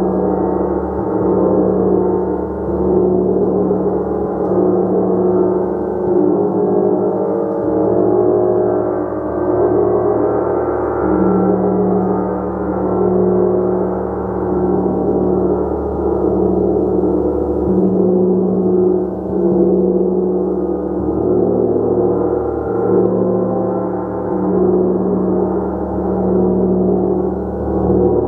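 A gong played continuously in a long sustained wash, many overlapping tones ringing together, swelling and easing every couple of seconds as it is struck softly again and again.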